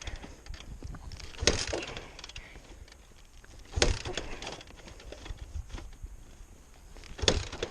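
Three kicks on the kick-starter of a Honda CRF100 dirt bike, each a sudden mechanical clatter with a brief turning-over noise after it. The engine does not catch.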